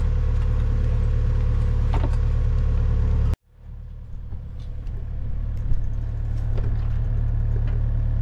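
A motor-vehicle engine runs steadily, then cuts off abruptly a little over three seconds in. A low engine drone then rises back in and runs steadily.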